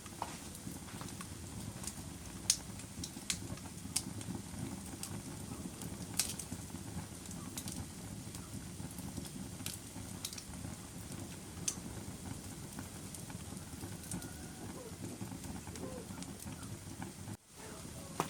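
Wood fire burning in a fireplace: a steady low rushing sound with scattered sharp crackles and pops, the loudest pop about two and a half seconds in. The sound drops out for an instant near the end.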